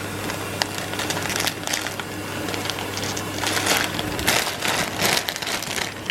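Plastic instant-noodle packaging crinkling and crackling irregularly as it is handled, over a steady low hum.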